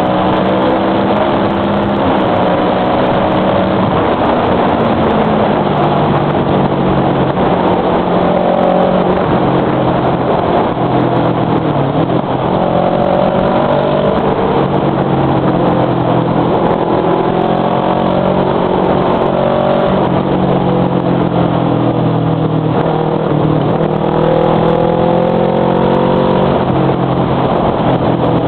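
Motorcycle engine running under way, its pitch rising and falling several times with throttle and gear changes, over a steady rush of noise.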